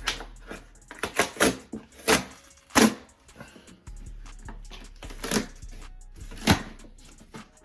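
Cardboard shoe box being opened and its packing paper handled: a series of short, sharp rustling and crinkling bursts, the loudest about three seconds in.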